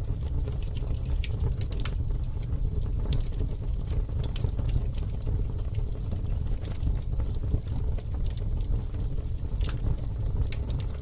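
Campfire burning: scattered sharp crackles and pops of the burning wood over a steady low rumble.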